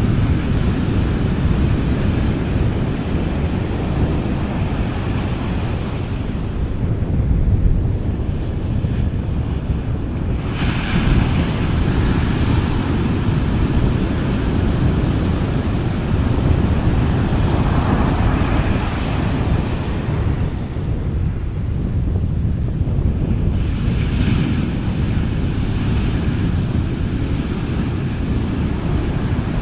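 Small sea waves breaking and washing on a beach, the hiss of surf swelling about three times, over a steady rumble of wind on the microphone.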